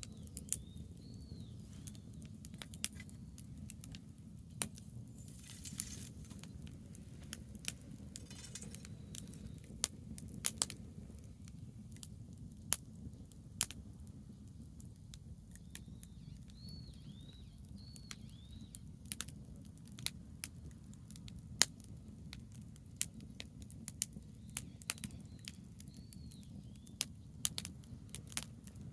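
Campfire of branches burning, crackling with sharp pops at irregular intervals over a steady low rumble.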